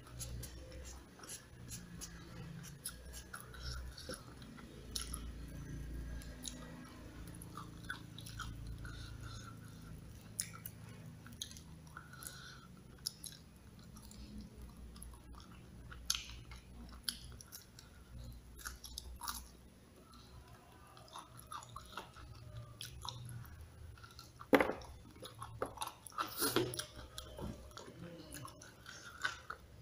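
Close-miked chewing of rice and crispy smashed fried chicken, with wet mouth clicks and smacks throughout. A few louder crunches come near the end.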